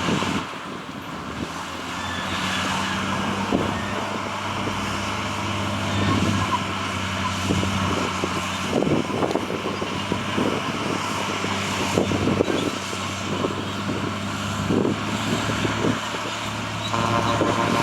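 Heavy diesel earthmoving machinery running steadily, with scattered knocks and clatter throughout. A horn starts sounding near the end.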